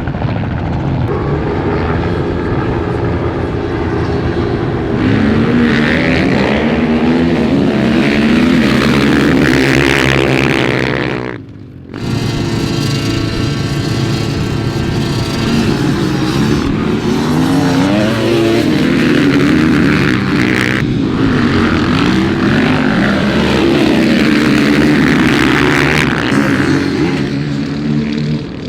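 Motor vehicle engines running and revving, rising and falling in pitch, with a brief drop in level about eleven seconds in.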